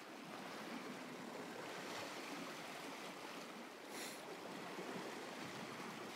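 Faint, steady wash of seawater against a rocky shore, with a brief high hiss about four seconds in.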